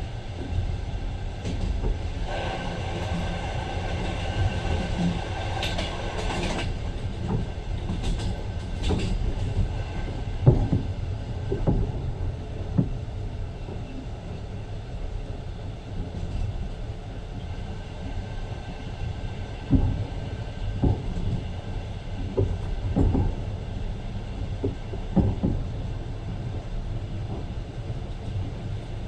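Passenger train running: a steady low rumble with irregular knocks and clacks of the wheels over the rails. A high pitched whine sounds from about two seconds in and stops at about six and a half seconds.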